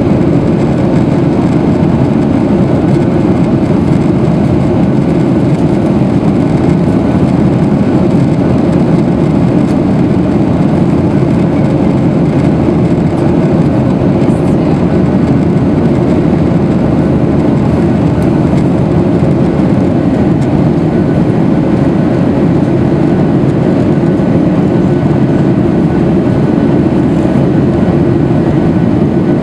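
Steady engine and airflow noise of a Boeing 737-800 with CFM56-7B turbofans, heard inside the passenger cabin: a constant low rumble with a faint steady hum over it.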